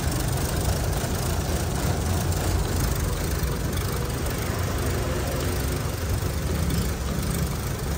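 2012 Chevrolet Cruze's four-cylinder petrol engine idling steadily. It runs quietly but jerks unevenly, like a cylinder misfiring, and the mechanic wonders whether a spark plug is at fault.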